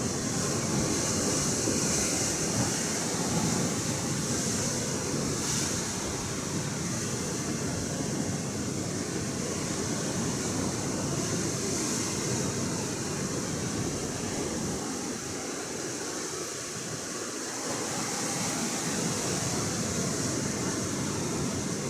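Ocean surf washing steadily, with wind, swelling and easing gently.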